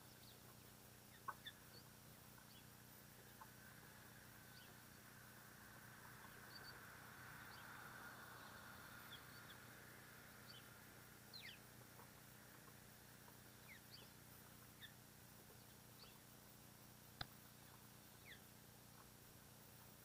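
Faint, scattered short bird chirps over near silence, with two sharp clicks, one just over a second in and one near the end, and a soft swell of noise in the middle.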